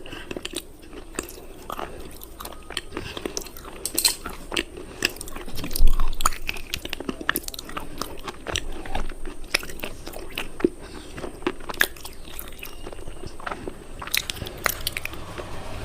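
A person biting and chewing hard, brittle cubes close to the microphone: irregular sharp crunches and crackles one after another, the loudest about six seconds in.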